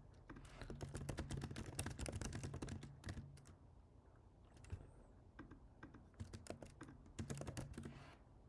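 Typing on a computer keyboard: a fast run of key clicks from about half a second in to about three seconds, a few scattered keystrokes, then a second run from about six to eight seconds in.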